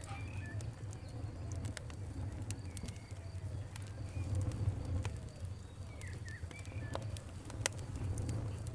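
Wood fire crackling, with irregular sharp pops and snaps over a low steady rumble. Birds call faintly in the background.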